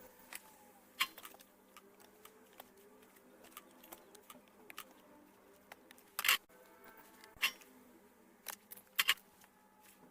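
Scattered light clicks and taps, a few sharper ones, from small tools working on a circuit board while shorted diodes and a faulty thyristor are being removed.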